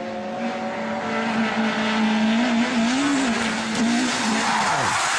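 Race car engine held at steady high revs, with a rush of tire skidding noise building up. The engine note falls away about four and a half seconds in.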